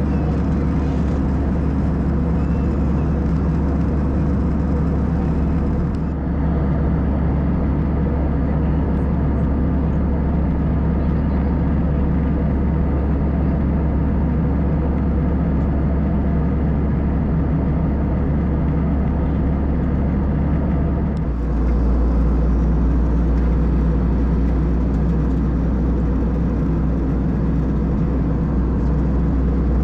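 Steady drone of an Airbus A320's engines and rushing air, heard inside the passenger cabin in flight. It shifts abruptly in tone about six seconds in and again about twenty-one seconds in.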